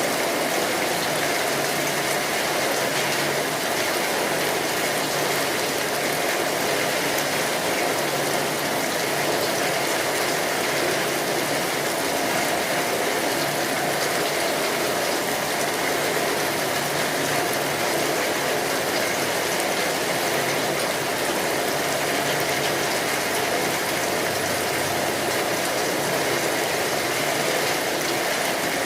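Steady rainfall, an even hiss with no pauses or single loud drops.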